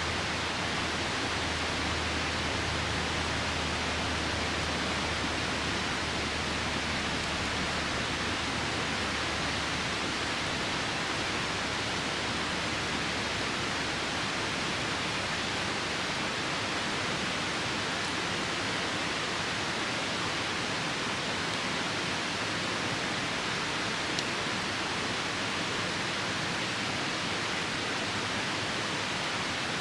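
Steady, even rushing of a nearby river mixed with falling rain. A faint low hum fades out within the first several seconds.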